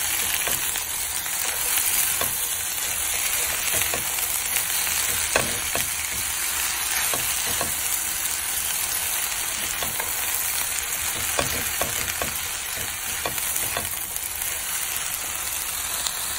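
Sliced onions and celery sizzling as they sauté and cook down in a hot pan: a steady frying hiss with scattered small ticks.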